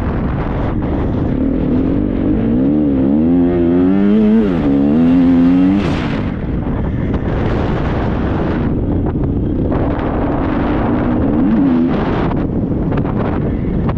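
Triumph 250 motocross bike's engine being ridden hard: it revs up and down in waves a few seconds in, drops back about six seconds in, and revs briefly again near the end. A rough, dense noise runs under it all.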